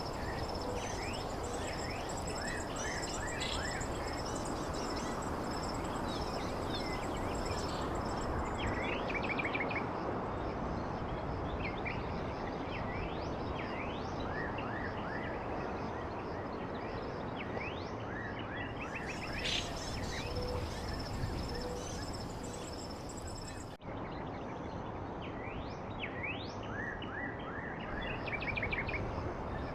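Birds chirping with many short, quick sweeping notes, over a steady rushing background noise and a continuous high-pitched trill. The sound breaks off abruptly for an instant about three-quarters of the way through.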